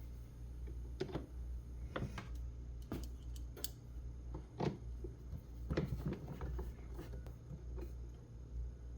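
Light, scattered clicks and knocks, roughly one a second, from plastic pressure-washer parts being handled and fitted with screws, over a low steady hum.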